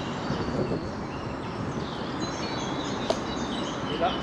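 Small birds chirping over a steady rushing outdoor background noise, with a single sharp click about three seconds in.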